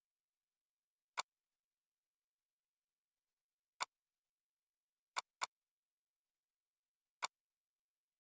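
Short sharp clicks against near silence: one, another, a quick double click, then one more.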